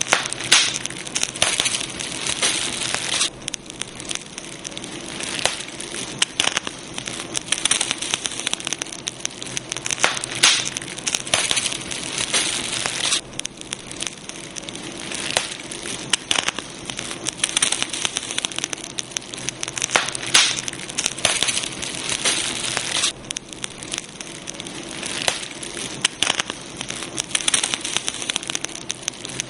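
Campfire burning: wood crackling with dense, irregular pops and snaps over a steady hiss.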